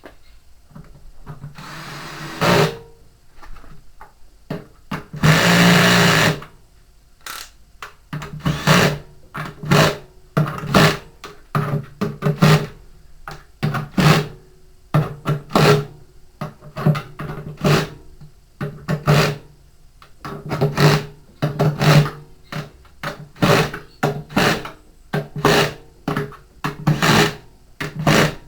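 Cordless drill-driver running in short trigger bursts, over and over: screws being driven to close a washing machine tub.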